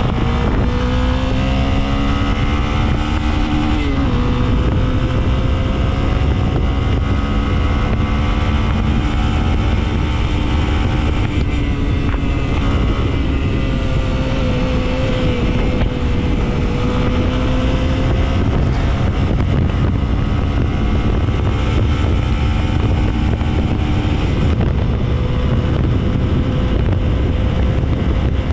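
Honda XRE300's single-cylinder engine pulling hard at high speed under heavy wind rush on the microphone. The engine note climbs for the first few seconds, drops sharply in pitch about four seconds in at a gear change, then holds high and fairly steady.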